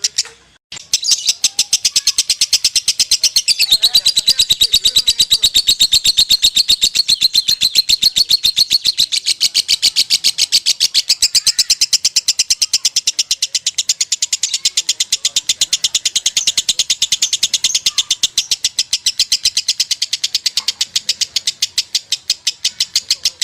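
Lovebird singing a long, unbroken ngekek: rapid, evenly spaced shrill chirps, several a second, after a brief pause about half a second in. This is the non-stop 'konslet' style of ngekek that is prized in contest lovebirds.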